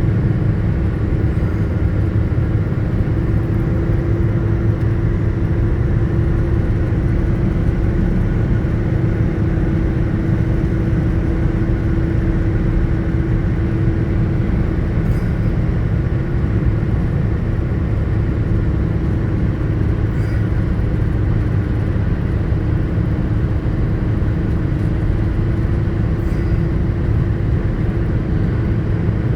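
A road vehicle's engine and road noise: a steady low rumble with a constant hum, with a few faint ticks.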